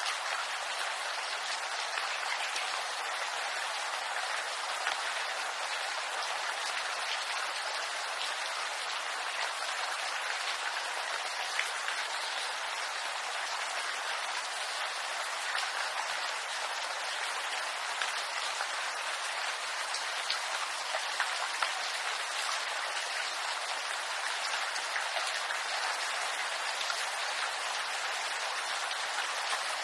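Steady rain falling in a bamboo grove: a dense, even hiss of drops with scattered sharper ticks of single drops hitting leaves and stems.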